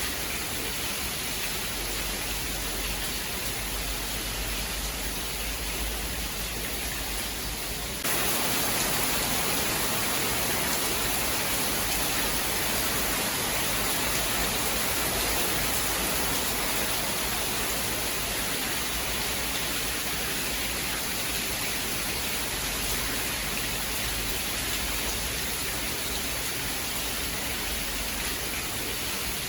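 Steady rainfall, an even hiss with no thunder. About eight seconds in it abruptly gets louder and hissier, and holds there.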